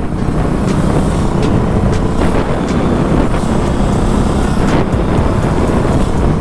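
Dirt bike engine running while riding at low speed, with wind noise on the microphone.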